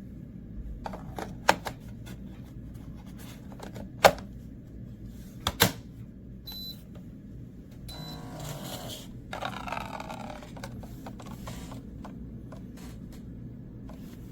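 A few sharp clicks and knocks, the loudest about four and five and a half seconds in, over a steady low hum, with a brief rattling, rushing stretch between about eight and ten seconds.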